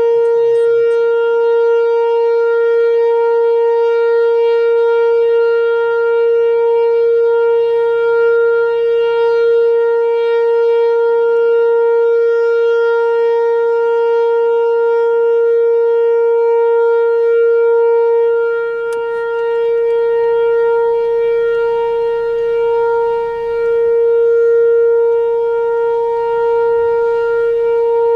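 Whelen Vortex R4 electronic outdoor warning siren sounding a steady alert tone, held at one constant pitch, for a tornado drill.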